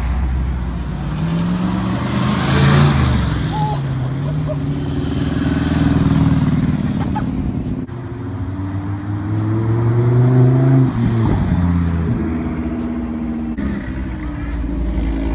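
Car engines revving loudly, their pitch rising and falling several times, with an abrupt change about eight seconds in.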